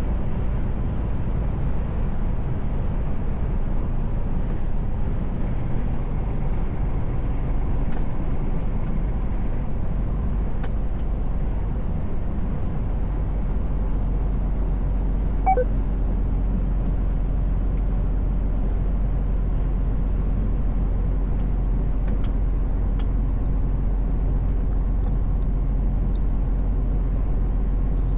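Mercedes Actros L truck driving on the road, heard inside the cab: a steady low engine and road drone. About halfway through there is a brief beep.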